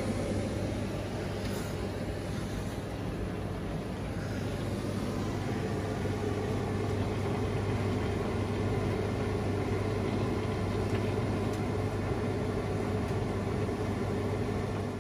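Washing machine running with a steady low motor hum and a constant level throughout.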